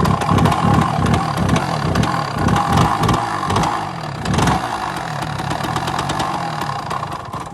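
KTM motorbike engine catching after repeated kick-starting and running unevenly, its revs rising and falling again and again, then cutting out abruptly near the end.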